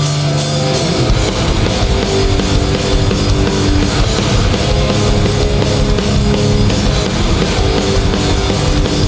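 Live hardcore punk band playing loudly: distorted electric guitars, bass and a drum kit beating a steady pounding rhythm, with no vocals.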